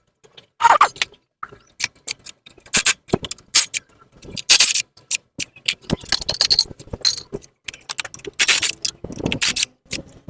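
Metal tools and parts clinking, rattling and scraping in irregular bursts during work on a motorcycle exhaust.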